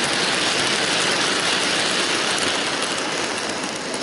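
Bachmann Paxton model diesel locomotive running along the track with a train of tanker wagons: a steady whirr of its small electric motor and wheels on the rails, easing slightly near the end.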